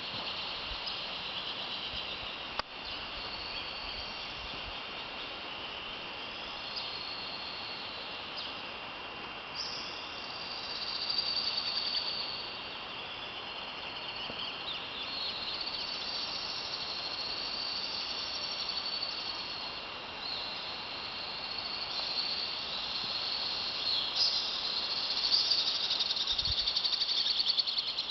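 Birds singing and insects chirping over a steady background hiss, with the high calls louder about a third of the way in and again near the end.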